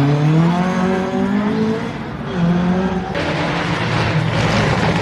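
Rally car engine revving hard as the car accelerates, its pitch climbing steeply, easing off briefly about two seconds in and then picking up again. From about three seconds a louder rough rushing noise joins the engine.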